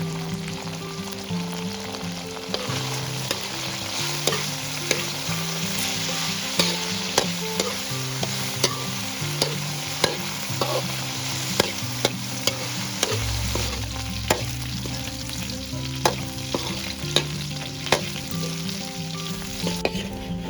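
Food sizzling as it fries in a pan, stirred with a utensil that knocks and scrapes against the pan in frequent sharp clicks.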